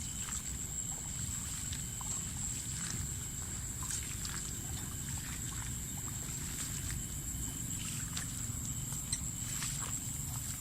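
Night insects keep up a steady high-pitched drone over a low steady rumble, with scattered small clicks and knocks from movement.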